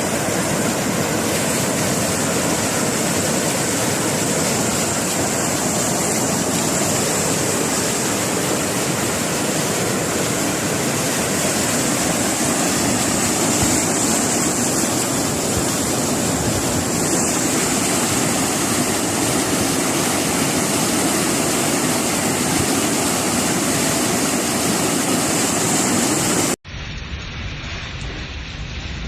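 Loud, steady rush of flowing rain water. Near the end it cuts off abruptly and gives way to a quieter, duller wash of water noise.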